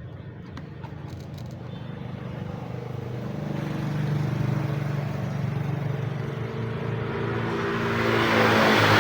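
Hot-air gun running: a steady motor hum under a rush of blown air, growing louder and peaking near the end, as hot air is blown over the headlamp to soften the sealant holding the lens.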